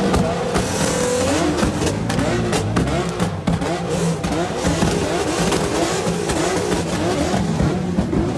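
Car engines revving over and over, the pitch rising and falling about twice a second, with scattered sharp cracks.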